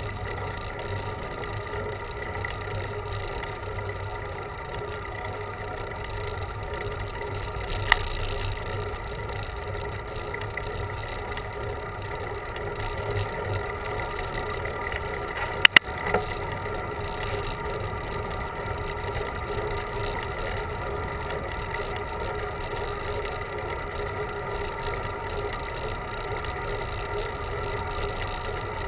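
Steady riding noise from a bicycle on a road climb: a constant hum and rush, with a sharp click about eight seconds in and a louder double knock near the middle.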